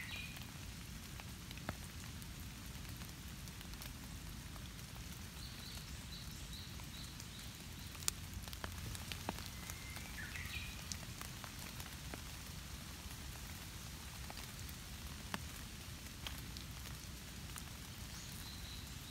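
Steady rain pattering, with scattered sharper drip hits, the loudest about eight seconds in.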